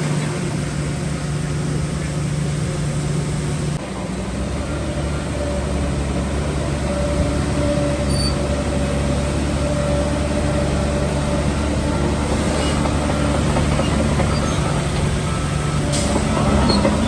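Heavy diesel construction machinery running steadily under load, with its low engine tone shifting suddenly about four seconds in.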